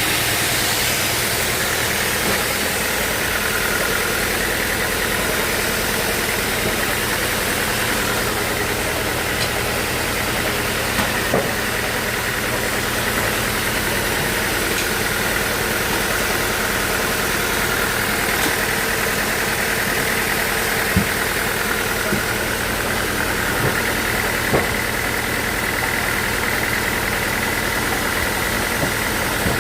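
Portable sawmill running steadily, with a faint high whine held throughout and a few light knocks scattered through.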